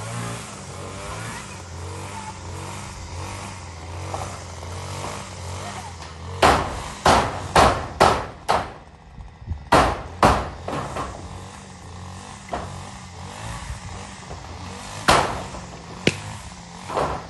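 Hammer blows nailing zinc roofing sheets: a quick run of about seven sharp strikes, then a pause and three more spaced-out strikes near the end, over a steady low hum.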